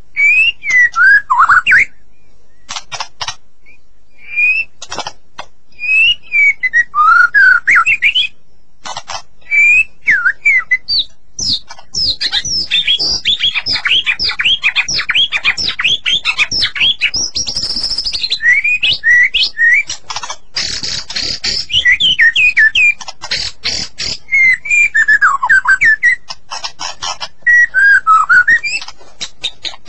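White-rumped shama (murai batu) singing: loud whistled phrases that slide down and back up in pitch, broken by sharp rapid clicking notes, with a dense fast run of notes through the middle.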